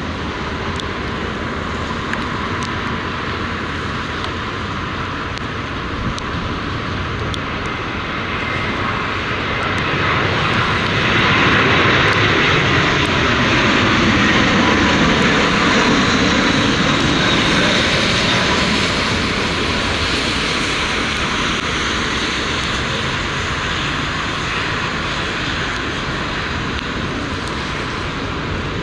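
Jet airliner passing close by on its landing approach: the engine noise builds to a peak about halfway through, dips slightly lower in pitch as it goes past, then slowly fades.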